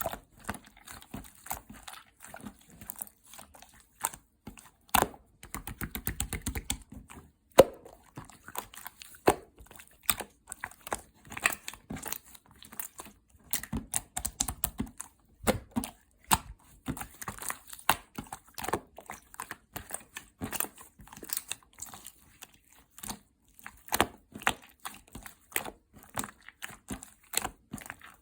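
Sticky slime being squished, stretched and pressed by hand, giving a steady string of small clicks, crackles and pops from air trapped in it, with a quick run of them about six seconds in.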